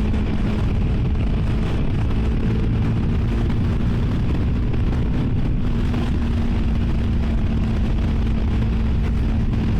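CFMoto 300NK's single-cylinder engine running at a steady cruising speed through the stock exhaust, holding one even tone, with heavy wind rush on the helmet microphone.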